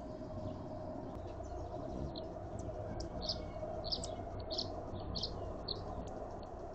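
A bird chirping: a quick run of short, high notes, about two to three a second, starting about two seconds in, over a steady background hiss and faint hum.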